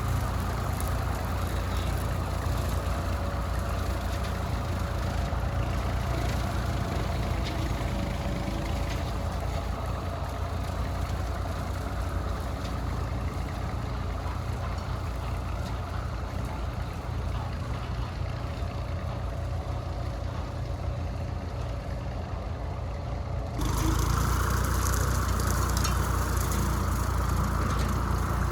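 Small tractor engine running steadily. Near the end the sound steps up suddenly, louder and brighter.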